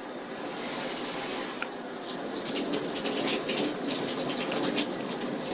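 A steady rushing noise, with faint irregular crackles coming in about halfway through.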